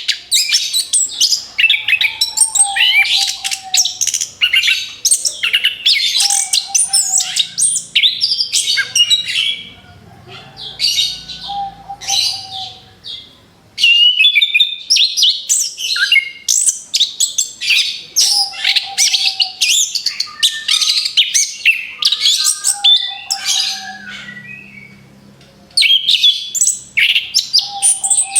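Orange-headed thrush (anis kembang) singing a fast, varied run of loud whistles and chattering phrases in rapid-fire bursts. The song breaks off briefly twice, about a third of the way in and again near the end.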